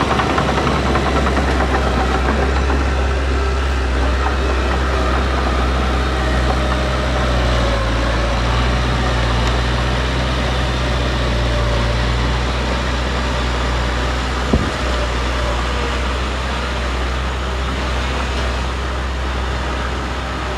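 Diesel engine of a heavy earthmoving machine running steadily with a deep low hum, and a single sharp knock about fourteen seconds in.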